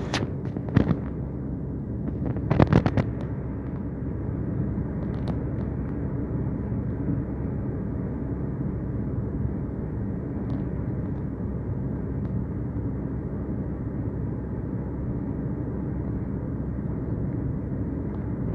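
Steady low background rumble, with a few sharp clicks about one second in and a quick cluster of clicks around three seconds in.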